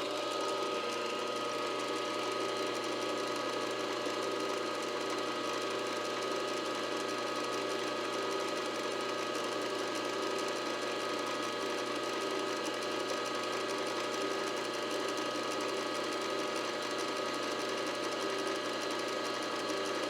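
Milling machine spindle running at a steady speed, an even motor hum with a steady whine over it.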